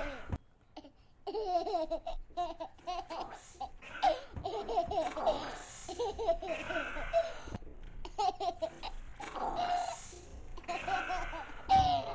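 A person laughing in several bouts, with short breaks between them.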